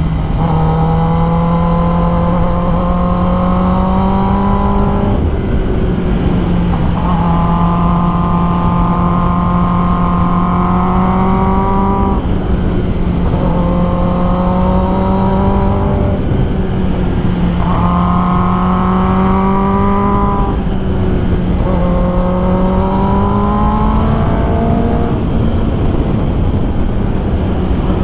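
Kawasaki ZX-10R's inline-four engine running under way, its note swelling and easing off every few seconds as the throttle opens and closes, over steady wind rush.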